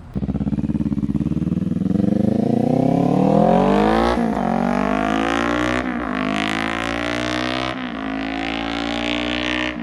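Kawasaki Ninja 500's parallel-twin engine through an aftermarket slip-on muffler, accelerating hard through the gears: the revs climb, drop sharply at three upshifts, then hold steadier near the end.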